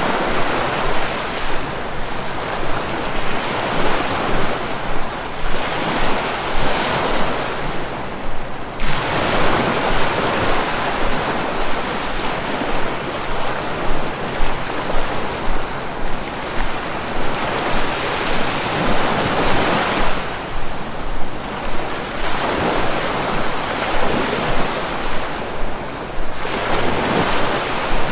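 Sea waves breaking, the surf swelling and easing in repeated surges every few seconds.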